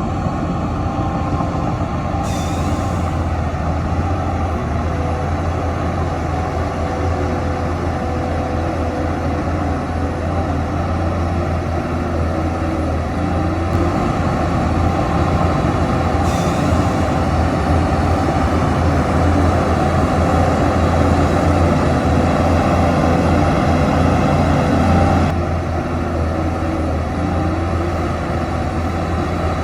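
Heavy diesel earthmoving machinery running steadily under load, with a deep even engine hum. Two short hisses of air come about 2 and 16 seconds in, and the engine note eases a little about 25 seconds in.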